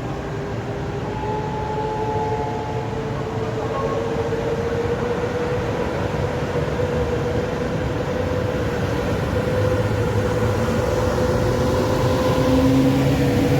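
Electric train running through a station, growing steadily louder, with a motor whine that slowly rises in pitch over a dense rail rumble.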